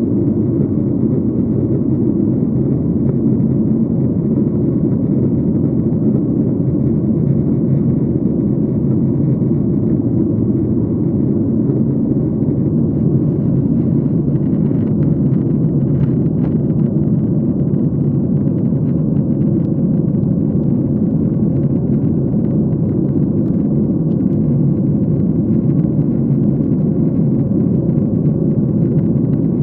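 Steady drone of an airliner in flight heard inside the passenger cabin: engine and airflow noise, low and even throughout.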